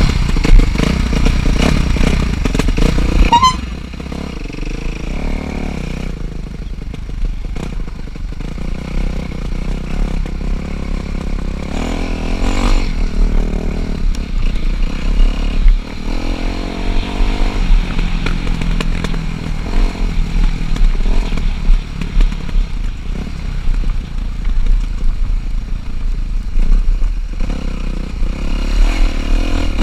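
Four-stroke motocross bike engine revving up and down as it is ridden, louder for the first few seconds and then dropping back, with clatter from the bike and a low rumble under it.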